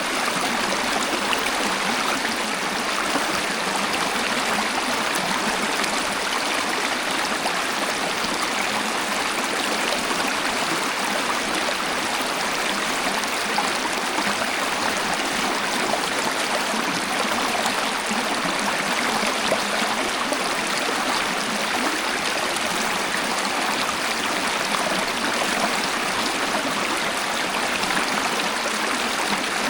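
Waterfall of flowing water splashing in a steady, unbroken rush, with little deep rumble.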